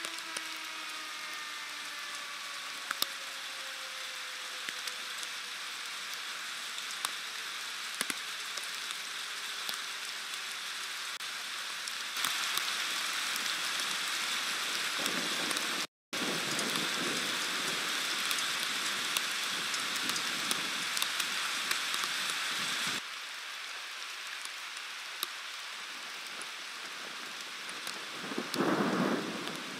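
Steady heavy rain hissing down during a thunderstorm, with sharp drop ticks throughout. It pours harder for about ten seconds in the middle. A low rumble of thunder swells near the end.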